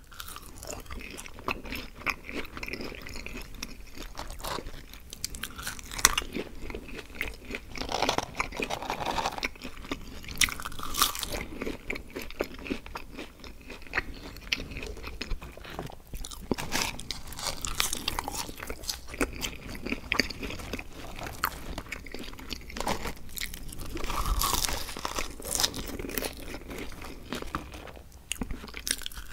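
Close-miked eating sounds of burgers and fries: irregular bites and crunchy chewing, with a few louder crunches scattered through.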